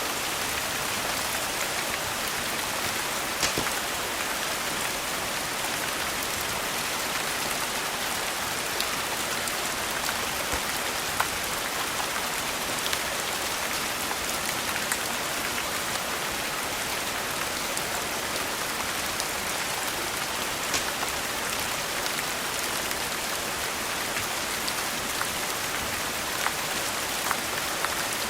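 Steady rain falling, an even hiss with scattered sharp ticks every second or so.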